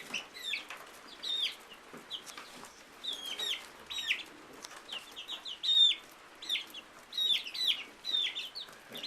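Five-week-old chicks peeping: short, high calls that drop in pitch, coming in quick runs of several at a time.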